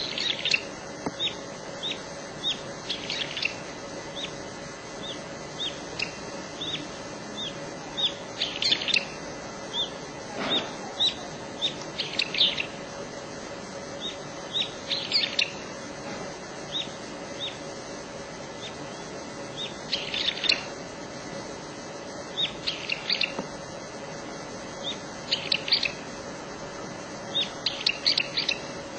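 A small songbird singing: short high chirps about twice a second, broken every few seconds by quick bursts of several notes. A faint steady hum runs underneath.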